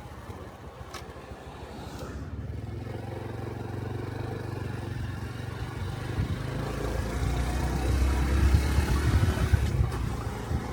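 Exhaust and engine of a Honda Cub 125 cc single-cylinder motorcycle while riding, heard from the rider's position. The engine note is steady and low, growing louder through the second half.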